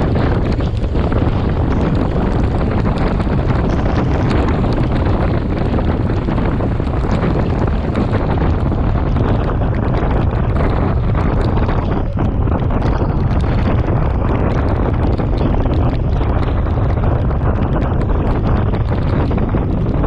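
Wind rushing and buffeting over the camera microphone of a moving bicycle, a loud, steady roar that is strongest in the low end.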